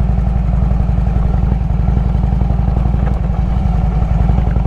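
Harley-Davidson Road King's V-twin engine running steadily under way on a dirt road, its exhaust pulsing in a fast, even beat.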